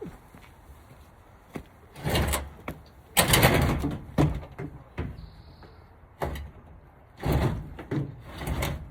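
A heavy washing machine being shoved and dragged by hand in several short pushes, each a brief scraping slide with knocks in between.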